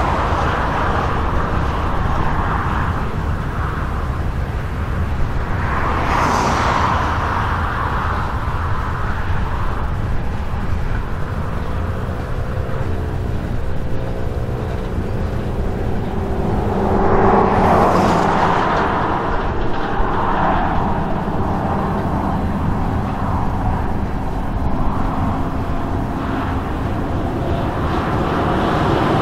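A long freight train of tank cars rolling past, a steady rumble of steel wheels on rail that swells and eases as the cars go by. Faint wavering squeals come in about midway.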